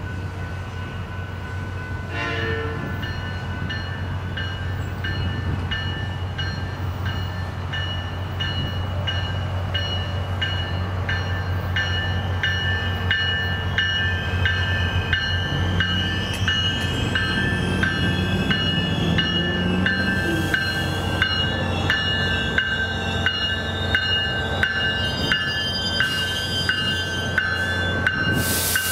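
SunRail commuter train running into the station and drawing up at the platform, its rumble building as it nears, with a bell ringing in a steady beat throughout. Short bursts of air hiss come near the end as it stops.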